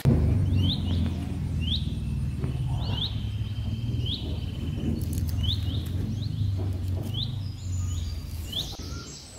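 A small bird calling with short sharp chirps, often in pairs, about once a second, over a steady low rumble.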